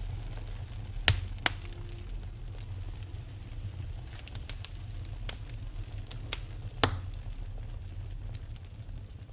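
Fireplace fire crackling, with scattered sharp pops over a steady low rumble. The loudest pops come about a second in, again half a second later, and once more past the middle.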